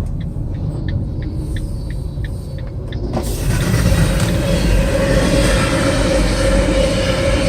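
Car turn signal clicking about three times a second inside the cabin, over the low rumble of the car. About three seconds in the clicking stops and a louder, steady rushing noise with a held tone comes in.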